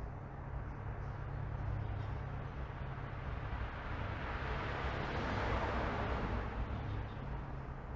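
A car driving past on a residential street, its tyre and engine noise swelling to a peak about five seconds in and then fading away, over a steady low traffic rumble.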